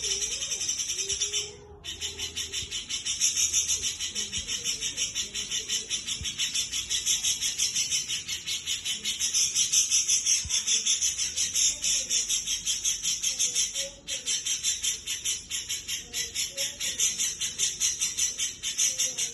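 A caged songbird kept by Indonesian bird hobbyists as a 'jenggot' singing a long, fast, high-pitched chattering song of rapid repeated notes, in full song ('gacor'), with a short break about a second and a half in.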